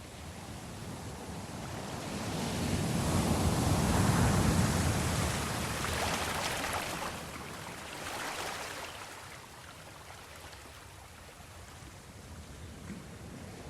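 Sea waves washing: a surge builds about two seconds in and peaks around four seconds, smaller swells follow, then it settles back to a low steady wash.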